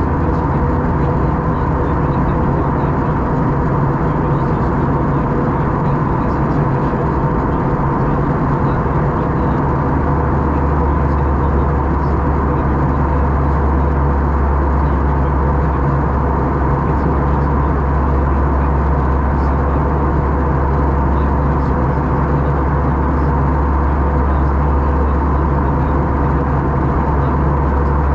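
Steady cabin noise of an Airbus A321 in flight, heard inside the cabin: jet engine drone and airflow with a constant hum. A deeper low drone comes in about ten seconds in.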